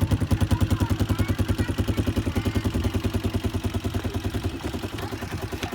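Top Motor 150 cc four-stroke motorcycle engine idling with an even, steady putter of about a dozen beats a second, muted by an added extra muffler. It eases slightly a little before the end.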